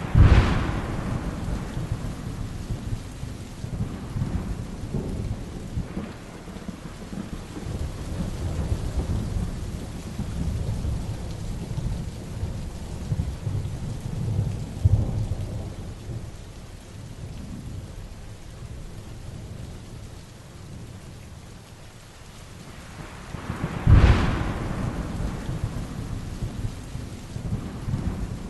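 Heavy rain falling steadily during a thunderstorm, with rolling thunder. Two sharp claps, one at the very start and one near the end, each trail off into a long low rumble.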